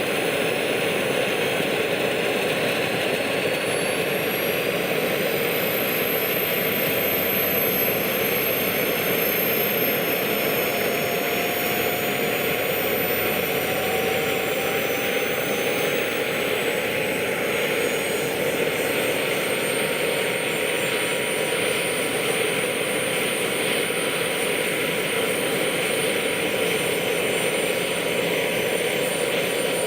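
Turbine engine of a large RC scale SA 315B Lama helicopter running, its whine rising slowly in pitch through the first two-thirds and then holding steady, over a steady rush of turbine and rotor noise.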